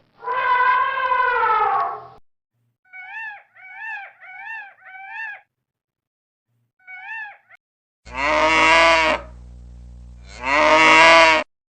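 A series of animal calls: a falling call at the start, a run of four short rising-and-falling calls and one more a little later, then two long, loud cow moos near the end.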